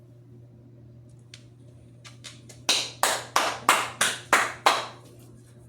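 Hand trigger spray bottle squirted seven times in quick succession, about three sprays a second, each a short hiss that starts sharply and fades, preceded by a few light handling clicks.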